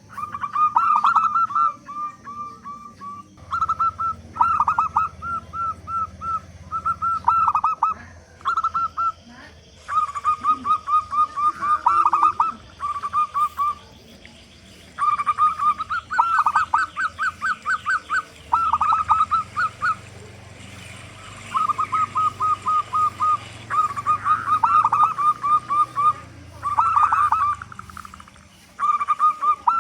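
Zebra dove (perkutut) cooing with a big voice: phrases of quick, rolling coo notes, each one to three seconds long, repeated with short pauses between.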